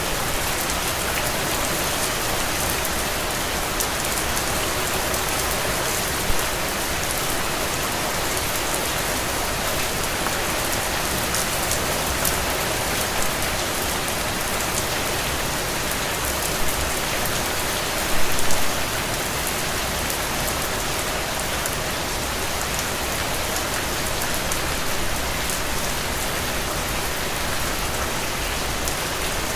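Heavy, steady rain falling on ground and soaking the soil, a constant hiss of many drops, with a few brief louder splashes, the loudest about eighteen seconds in.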